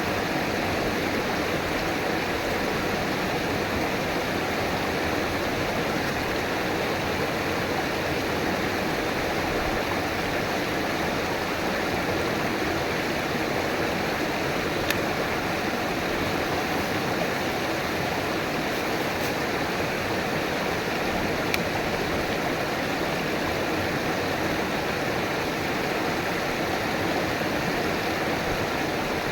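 River water rushing and splashing over rocks, a steady, even flow with a few faint ticks of droplets.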